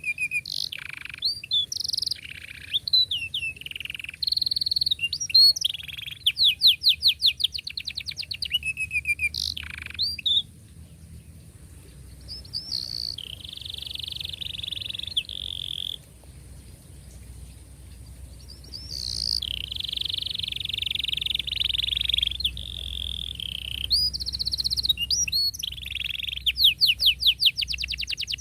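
Domestic canary singing a long song: quick chirps and rapid rolling trills for the first ten seconds, then long, tightly rolled trills, with fast repeated trill notes again near the end.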